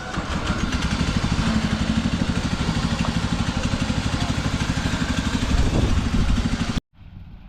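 Antique tractor engine running close by at a steady idle, with a fast, even firing beat. It cuts off suddenly near the end, leaving quieter background.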